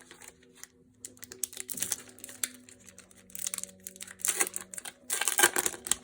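Trading-card booster pack being opened by hand: the foil wrapper crinkling and tearing, with quick clicks and rustles as the cards are handled. The loudest rustling comes about five seconds in.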